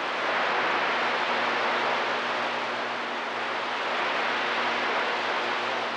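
Steady hiss of static from a CB radio receiver between transmissions, with a faint low hum under it.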